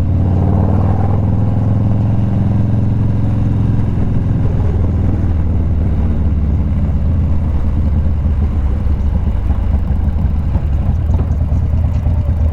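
Motorcycle engine running steadily under way, a constant low engine note.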